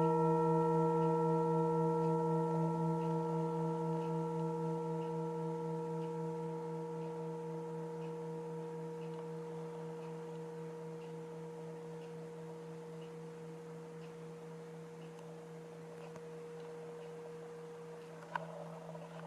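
Singing bowl ringing out after being struck, several steady tones with a slow pulsing beat in the lowest one, fading gradually. A short knock comes near the end.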